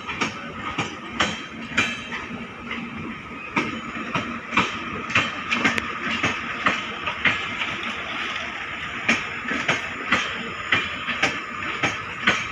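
Express train's passenger coaches rolling past, their wheels knocking over the rail joints in a steady clickety-clack of about two knocks a second over a continuous rolling rumble of wheels on rail.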